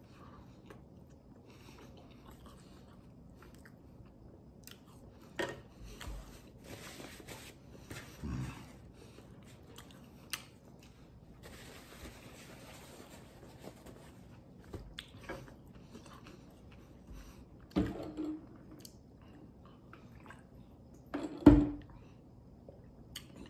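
A man chewing pizza crust with quiet mouth clicks and smacks, with a paper napkin rustling about twelve seconds in and a few louder short sounds near the end.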